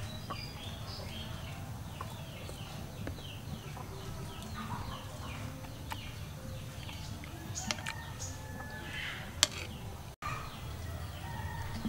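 Birds chirping in a steady run of short, repeated falling calls, with a few sharp clicks late on, the loudest about nine seconds in.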